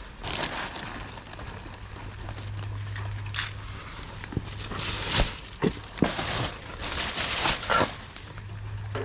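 Rustling and crinkling, with several sharp clicks, over a steady low hum.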